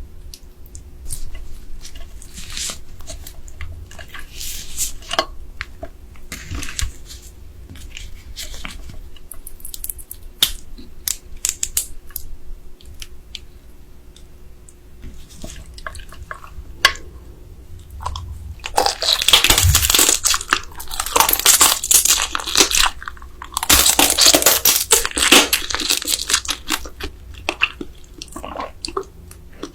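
Close-up eating of soy sauce marinated raw crab: scattered small clicks and chewing at first, then a long stretch of loud crunching from biting into the crab, starting about two-thirds of the way in and lasting several seconds.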